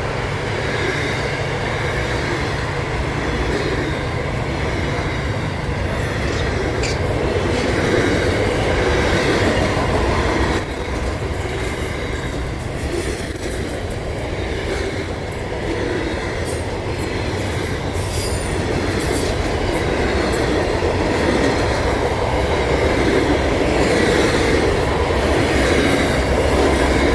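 Long intermodal freight train's wagons rolling past close by: a steady rumble and clatter of steel wheels on the rails, with a thin high-pitched wheel squeal running through most of it.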